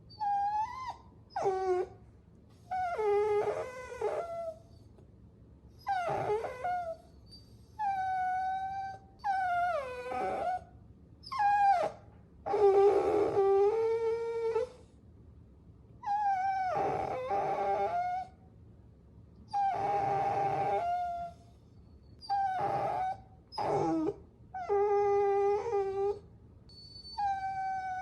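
Puppies whining: a string of high, drawn-out whimpers about a second long each, pitch sliding up and down, with short gaps between and now and then two voices at once.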